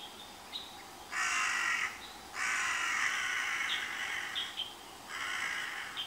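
Harsh, rasping bird calls in three bursts, the middle one about two seconds long. Behind them a small bird gives short high chirps about once a second.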